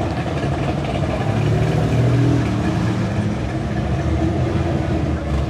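Classic car engines running at low speed as cars cruise slowly around; one engine gets louder about two seconds in.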